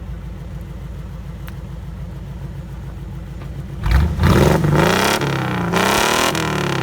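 1977 Jeep CJ5's 4.2-litre inline-six exhaust idling with a steady pulse, then revved hard about four seconds in, its pitch rising and falling through several quick throttle blips.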